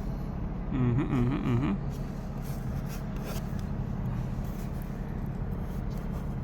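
Steady low mechanical hum, with a brief warbling tone about a second in and a few light clicks.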